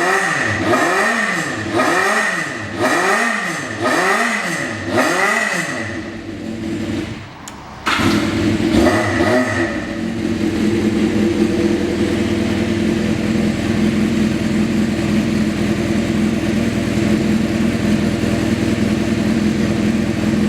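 Honda CBX400F's air-cooled inline four-cylinder engine through an aftermarket custom muffler, blipped five times about a second apart. After a brief drop, the sound cuts back in with one more blip, then settles into a steady idle.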